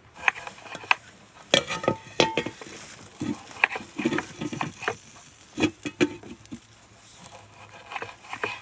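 A cooking utensil stirring and knocking in a pot of food, making irregular clinks and taps over a faint hiss.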